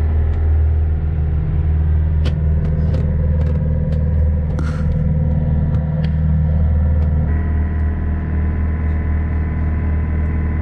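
Boat engine running steadily with a loud, low hum, its note shifting slightly about seven seconds in, with a few faint ticks over it.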